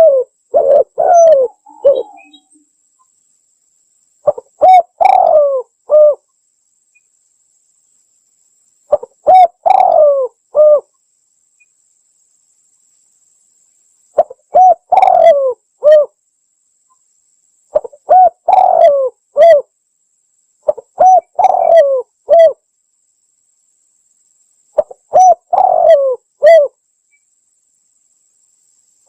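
Spotted dove (tekukur) cooing: loud phrases of several short coos, each phrase lasting one to two seconds, repeated about every four seconds with silence between.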